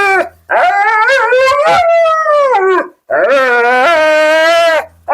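Siberian husky howling in long, drawn-out calls: two full howls of a couple of seconds each, each rising and then sliding down in pitch, with the end of one just before and the start of another right at the end. It is a husky's vocal protest while being handled in the bath, which the groomer calls just what Huskies do.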